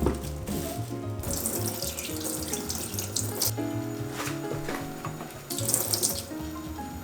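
Water running from a tap into a sink, starting about a second in and coming and going in spurts, over background music.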